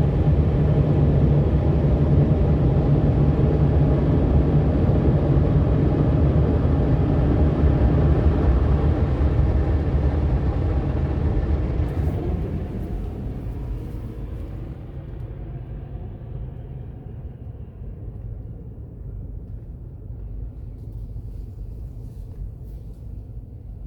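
Car wash dryer blowers running with a steady low hum, then spinning down about twelve seconds in and fading slowly to a quieter rumble.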